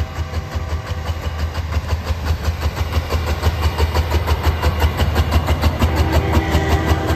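Heavy vehicle engine running with a deep rumble and a steady, rapid pulse.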